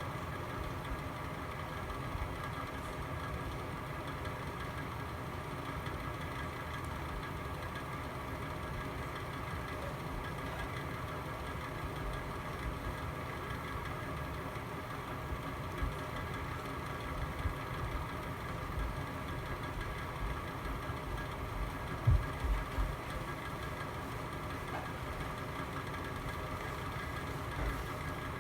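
Fireplace fire burning, with a steady hum over an uneven low rumble. It is broken by a few soft pops, the loudest cluster about 22 seconds in.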